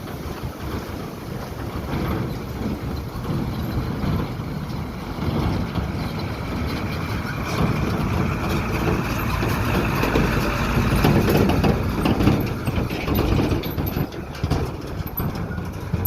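Dump truck's diesel engine running hard under load, growing louder to a peak about two-thirds of the way through, then easing off.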